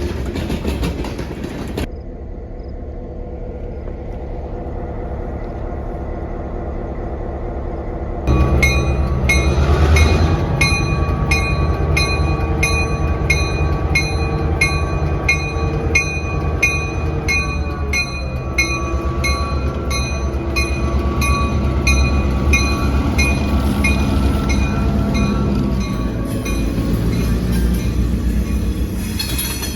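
A train running past on the rails: the steady drone of a diesel locomotive and a regular rhythm of wheel clicks over rail joints, about two a second. The sound changes abruptly about two and eight seconds in, and is loudest from about eight seconds on.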